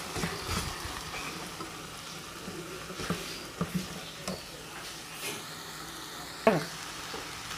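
Shredded chicken sizzling as it sautés in a stainless steel pan, stirred with a silicone spatula that scrapes and taps against the pan now and then.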